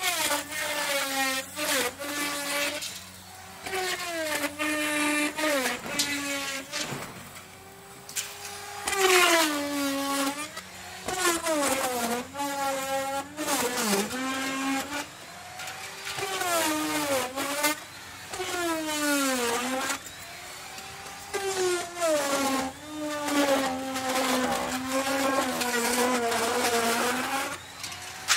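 Electric wood router cutting into wood in a series of short passes: the motor's whine drops in pitch each time the bit bites and bogs under load, then climbs back as it frees, over and over, with the rasp of wood being chewed away.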